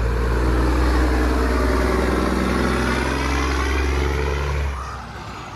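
Truck engine sound effect running steadily with a deep hum, easing off a little near the end.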